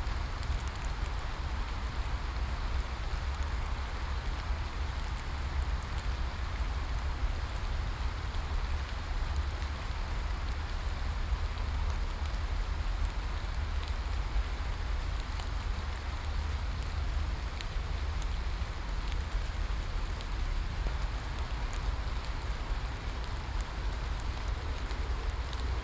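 Steady rain: an even hiss of falling rain with a low rumble beneath it and scattered sharper ticks of single drops.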